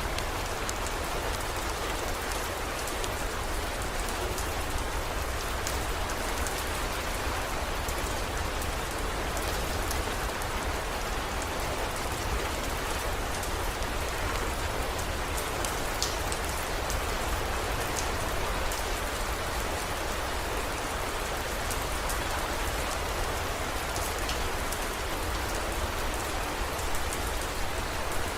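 Heavy rain falling steadily, with scattered sharp drop ticks over a continuous hiss and a steady low rumble underneath.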